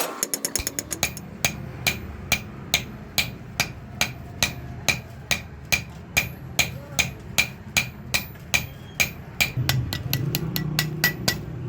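Blacksmith's hammer beating metal on an anvil in a steady rhythm, about two to three blows a second, each with a short metallic ring, over a low steady hum.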